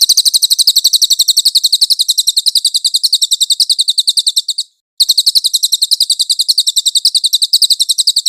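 A songbird's rapid, high-pitched rolling trill of evenly repeated notes, the fast 'ngeroll' song used as a masteran training recording. The run breaks off a little past halfway, and after a brief pause a second run starts.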